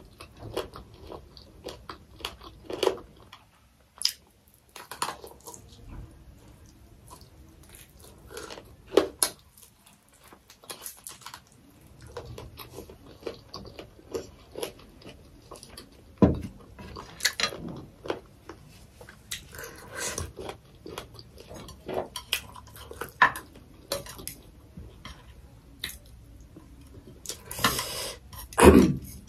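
Close-up eating sounds: wet chewing, biting and small crunches of fried chicken, with a few clicks of chopsticks and dishes and a denser stretch of eating noise near the end.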